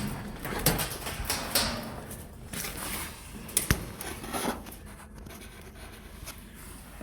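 Scattered knocks and clatters with scraping in between, from ice being worked off a cold-room evaporator during manual defrosting; they thin out and quieten after about five seconds.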